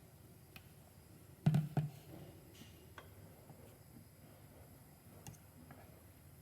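Kitchen clatter: two knocks close together about a second and a half in, then a few faint clicks.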